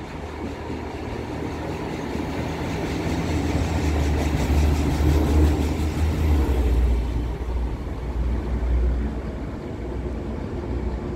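Diesel multiple unit approaching and passing underneath, its low diesel engine drone and wheel noise on the rails swelling to a peak about five seconds in, then fading as it moves away.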